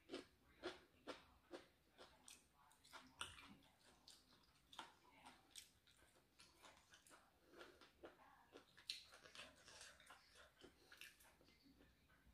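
Faint chewing of spicy pork and pumpkin curry with glass noodles, with irregular small mouth clicks a few times a second.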